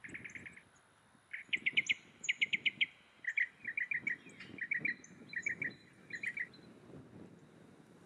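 A bird singing in quick bursts of short chirped notes, three to six at a time, the groups coming about twice a second and stopping a little before the end.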